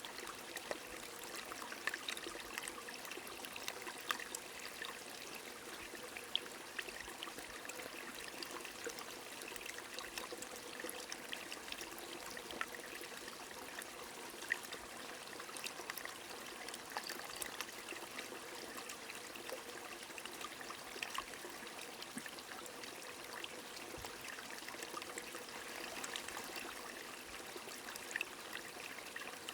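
Steady rain falling with a stream running, many small drop ticks scattered over an even rush of water.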